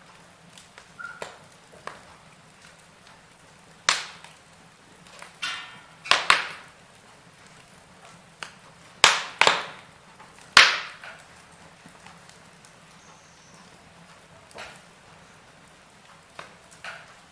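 Wood fire in a fireplace crackling: scattered sharp pops and snaps over a faint steady hiss, the loudest few coming about nine to eleven seconds in.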